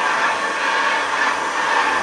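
1960 Hoover Deluxe 652 upright vacuum cleaner running steadily, its motor going at an even pitch with no change in level.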